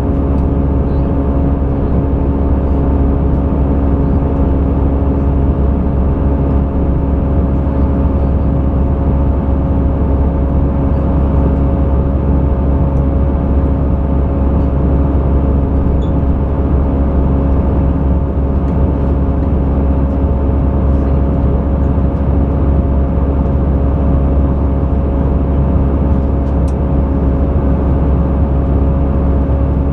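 Airbus A320 airliner in flight, heard from inside the cabin: the jet engines' steady drone with a heavy low rumble and several steady humming tones, unchanging throughout.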